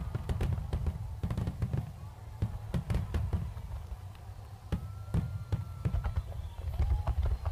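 Fireworks display: aerial shells bursting one after another in a dense barrage, a rapid string of sharp bangs and crackles over a continuous deep rumble.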